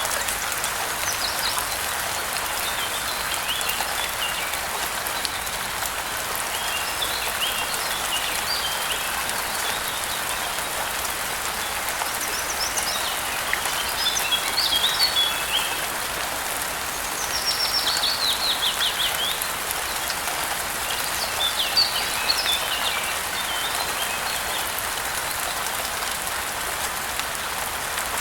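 Steady rain falling, with birds singing through it in several short bursts of chirps, including a quick descending trill partway through.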